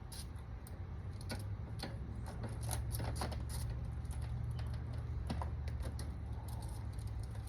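Irregular light clicks and taps of hand tools at work during a spark-plug change, over a steady low hum.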